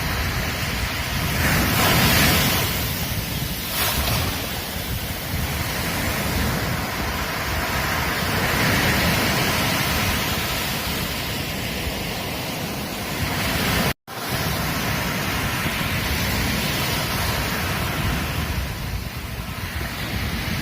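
Ocean surf breaking and washing on a beach, with wind buffeting the microphone. The surf swells about 2 seconds in and again near the middle, and the sound drops out for an instant about two-thirds of the way through.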